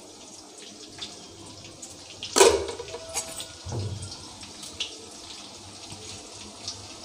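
Sliced onions and green chillies frying in hot mustard oil in a kadai: a steady sizzle. A short, louder burst about two and a half seconds in, and a dull knock about a second later.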